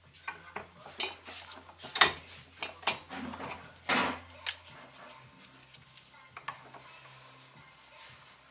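Metal pieces clinking and knocking in a series of irregular hits, the loudest about two and four seconds in, over a low steady hum.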